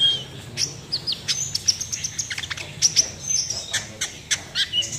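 Kolibri ninja sunbird singing in a rapid 'nembak' string: quick, sharp, high chirps and short downward-sweeping notes fired off in close succession.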